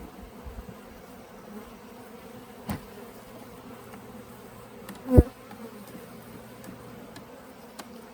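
Honeybees buzzing in a steady hum around an opened nucleus hive. A sharp knock comes about two and a half seconds in, and a louder thump about five seconds in.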